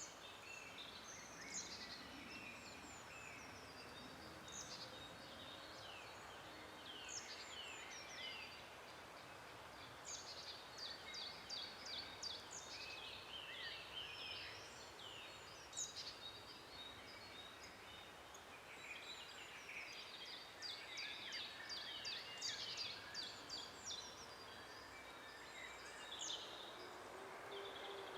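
Several songbirds singing in a forest over a steady background hiss, with a fast run of repeated high notes about ten seconds in and again about twenty seconds in.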